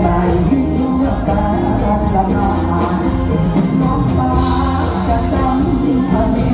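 Live Thai luk thung / mor lam band music with a steady drum beat and a melody line.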